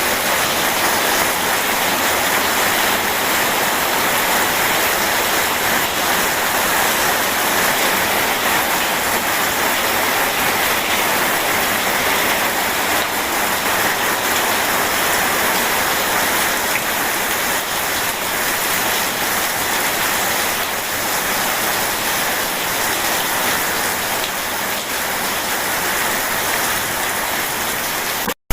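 Steady, heavy rain falling, an even dense hiss with no thunder. It cuts out to silence for a split second near the end.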